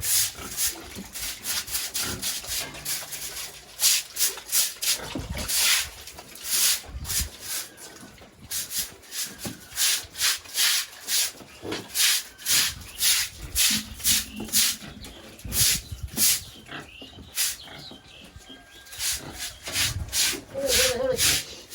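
An irregular run of short scraping or rubbing strokes, a few a second, with a pause in the middle.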